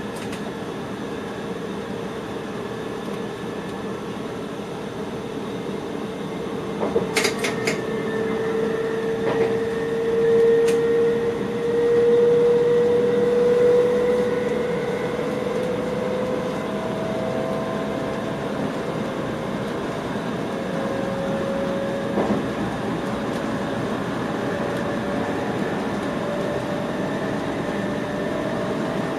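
Electric train running, heard from inside the driver's cab: a steady rolling rumble with a whine that slowly rises in pitch. A quick cluster of sharp clacks about seven seconds in.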